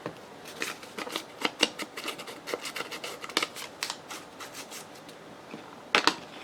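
Paper scraps being handled at a craft table: a run of irregular, crisp paper rustles and crackles, with a louder crackle about six seconds in.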